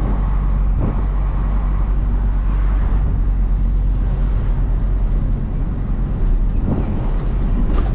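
Hino cab-over box truck's diesel engine running steadily while driving, with road and tyre noise, heard from inside the cab.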